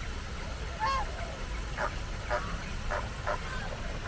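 Flamingos honking: a series of about five short, separate honks.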